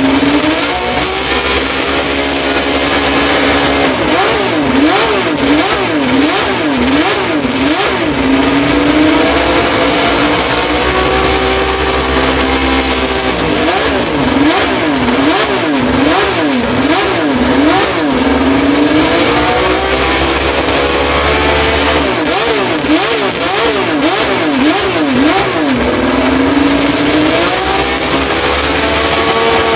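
Honda RA272's 1.5-litre V12 racing engine revved on the throttle: three rounds of quick blips, about two a second, each followed by a slower climb to high revs that is held and then dropped.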